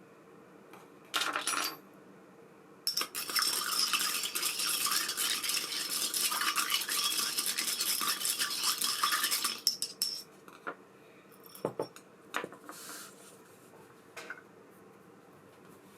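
Small metal parts of an ABU Ambassadeur 5500C baitcasting reel clinking and rattling against each other: two short bursts, then about seven seconds of dense clattering, then a few scattered clicks.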